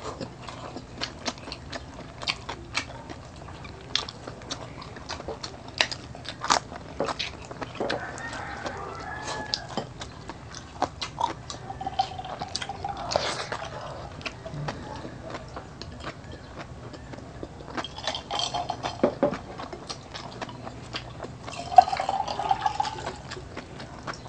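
Close-up eating sounds: people chewing pork bistek and rice eaten by hand, with a steady run of small sharp clicks and smacks from mouths and fingers.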